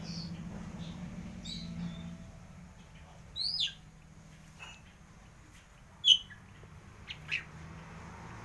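Wild birds chirping: a handful of short, separate sweeping calls, the loudest about six seconds in. A low hum sits under the first two seconds and then fades.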